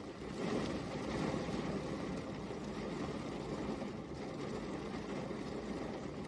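Steady rain falling, an even hiss that swells a little about half a second in.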